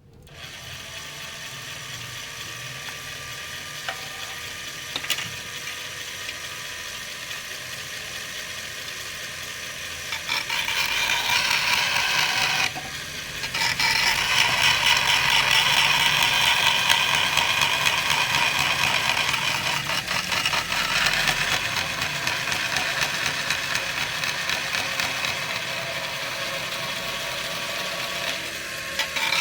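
Angle grinder running steadily, then cutting into plastic about a third of the way in: the sound grows louder and harsher while the disc bites, breaks off briefly once, then resumes and eases off.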